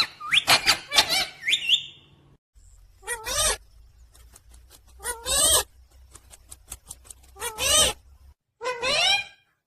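Pet parrot calling: a quick run of warbling squawks at the start, then single wavering calls about every two seconds.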